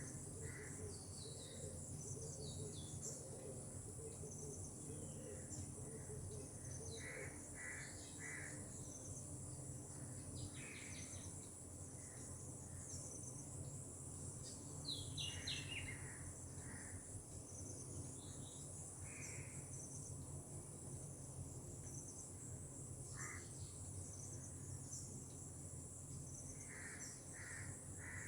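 Steady high insect chorus of cicadas or crickets, with birds calling over it. The bird calls come as short notes, some in groups of three and some in quick falling runs.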